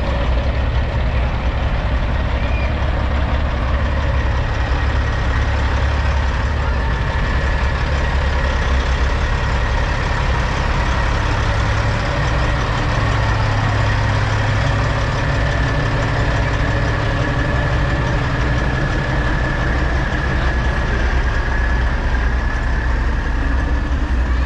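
Semi-truck diesel engines idling, a steady low rumble with a faint steady high whine over it.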